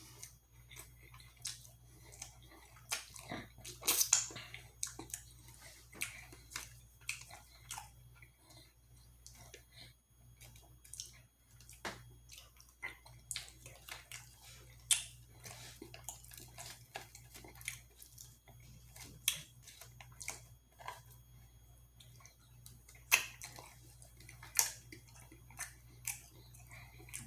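Close-miked chewing and mouth sounds of a person eating: irregular wet smacks and clicks, a louder cluster about four seconds in, over a faint steady low hum.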